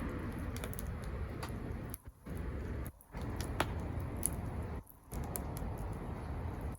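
Wood campfire crackling, with scattered sharp pops and snaps over a steady low rush that cuts out briefly three times.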